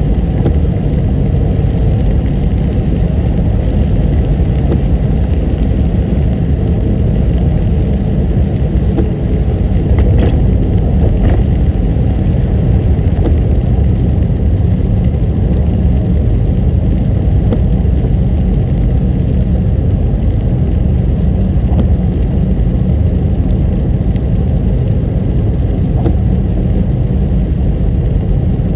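Car driving at a steady pace: continuous road and engine rumble, with a single faint click about ten seconds in.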